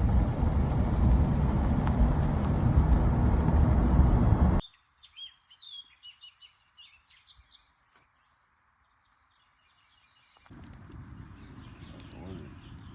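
A loud, steady rushing noise that cuts off abruptly after about four and a half seconds. It gives way to faint, scattered bird chirps over near silence, and a faint rushing noise returns near the end.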